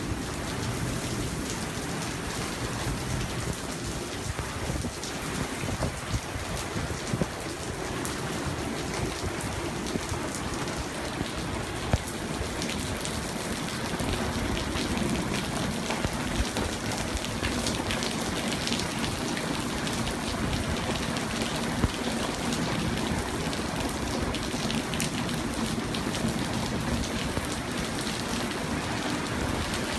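Thunderstorm rain falling steadily and hard, hissing on surfaces, with a couple of sharp louder drip knocks about ten seconds apart.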